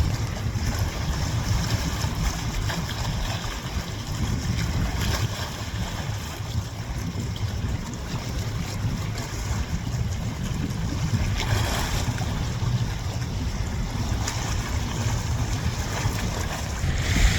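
Wind and sea noise on open water: a steady low rumble with an even rush of waves over it.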